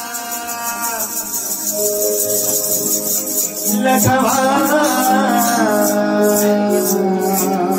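Marathi bhajan music: sustained instrumental tones with a voice entering about four seconds in on a long, wavering held line, over a steady rhythm of high shaking percussion.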